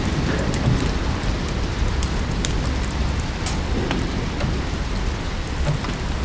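Steady rain with a strong low rumble underneath, with the sharp, scattered crackles and pops of a wood fire burning in a fireplace.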